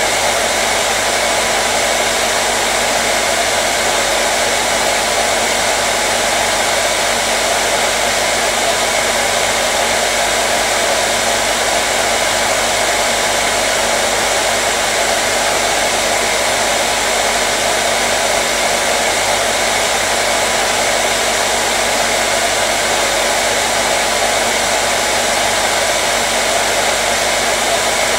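Hand-held hair dryer running steadily: an even rush of air with a faint motor hum, with no change in speed or level.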